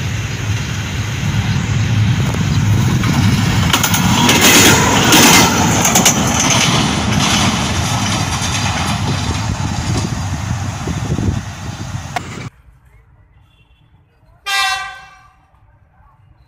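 Loud rumble and clatter of a diesel train running, cut off suddenly about twelve seconds in. A couple of seconds later comes one short blast of a diesel locomotive's horn from the GEU-40 as it approaches.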